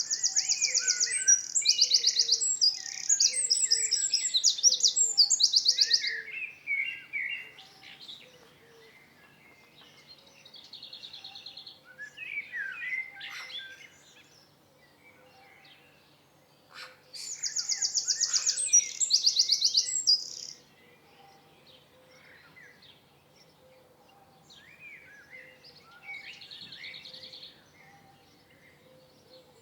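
Songbirds singing: two long bouts of loud, rapid high trills, one at the start and one about two-thirds of the way through, with quieter chirps and short whistled calls between.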